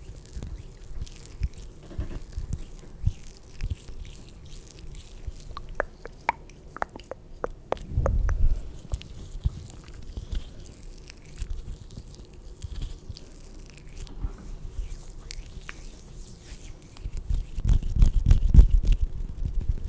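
Close-miked ASMR mouth sounds: many scattered wet clicks and pops. There are two spells of low rubbing rumble, one about eight seconds in and a longer one near the end.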